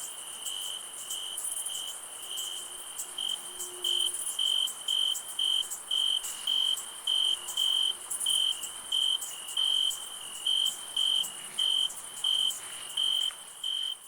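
Crickets chirping at night: one cricket's clear chirp repeating evenly about twice a second, louder from about four seconds in, over a steady high-pitched insect trill.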